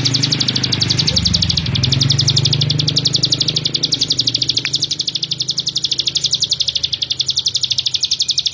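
Prenjak (prinia) singing a long, fast, evenly repeated chatter of high notes without a break, over a steady low hum.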